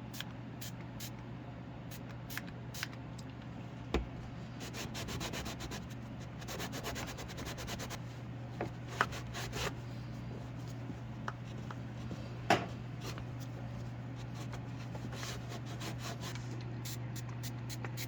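Rubbing and scrubbing on a surface during cleaning, in uneven stretches with scattered light clicks. There are two sharper knocks, about four seconds in and about twelve and a half seconds in, over a steady low hum.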